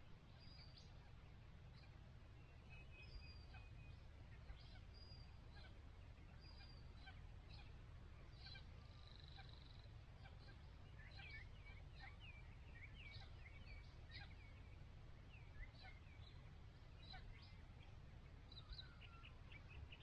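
Many small birds chirping and twittering in short, high calls that overlap throughout, over a low rumble of wind on the microphone.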